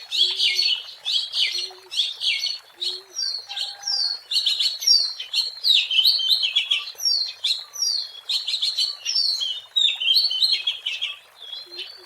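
Oriental magpie-robin singing a rapid, varied, unbroken string of whistles and chirps.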